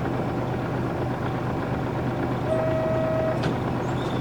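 Nissan Diesel PF6 inline-six diesel of a UA440 city bus running at a steady, even engine speed, heard from inside the cabin. A short electronic beep sounds about two and a half seconds in.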